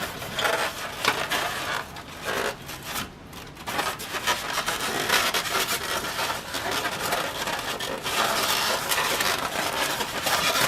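Irregular scraping and rubbing as a stuck part of a vintage ceiling fan is worked and forced loose by hand.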